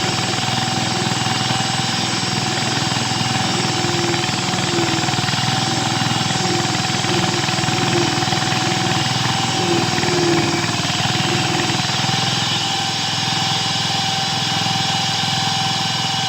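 Groove cutting machine's 13 hp VST Shakti 130DI single-cylinder diesel engine running steadily, its fast even chugging mixed with a constant high whine.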